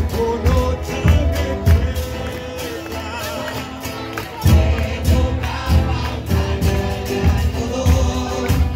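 Murga choir singing in unison over a beating bass-drum battery; the drums drop back for about two seconds midway, then come in again with a hard hit.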